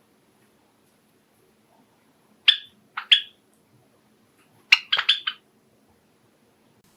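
Java sparrows giving short, sharp chirping calls: two a little after two and a half seconds in, then a quick run of four or five near five seconds.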